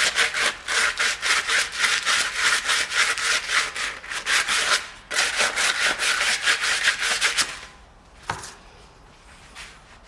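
Quick back-and-forth scraping strokes of a hand tool, about three a second, with a short break about five seconds in. The strokes stop about seven and a half seconds in, and a single sharp click follows.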